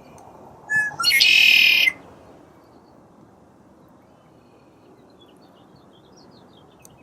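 A bird gives a short chirp, then a loud high call lasting nearly a second. After that, faint bird chirps come now and then over a soft steady hiss.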